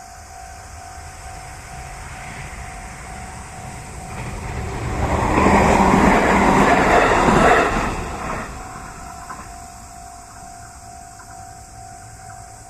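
Level crossing warning bell ringing steadily while a JR West 223 series electric train passes through the crossing, its noise swelling about four seconds in, loudest for about three seconds and fading again, the bell going on after the train has gone.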